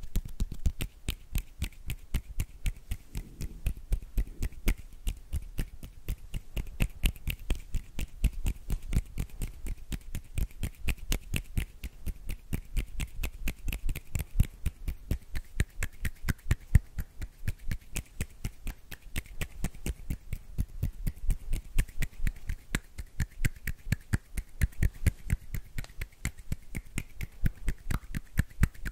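Close-miked ASMR hand sounds: a fast, fairly even run of sharp finger clicks and snaps, about four or five a second.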